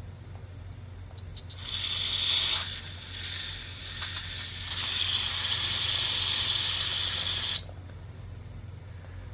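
A pressurised jet hissing into a small-engine carburetor as it is blown and sprayed clean. It starts abruptly about a second and a half in, shifts in tone a couple of times, and cuts off sharply after about six seconds.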